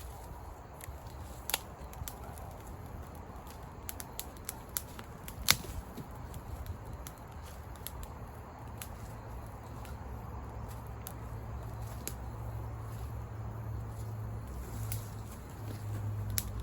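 Scattered sharp clicks and small knocks, with one louder snap about five and a half seconds in, over a low steady rumble.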